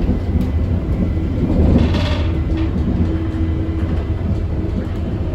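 Northern passenger train standing at the platform with its doors open, its engine and underfloor equipment running with a steady low rumble. A brief hiss swells and fades about two seconds in.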